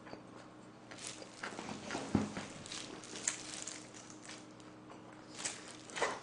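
Close-miked chewing and lip smacking of a mouthful of food: scattered wet clicks, the loudest about two seconds in and another near the end.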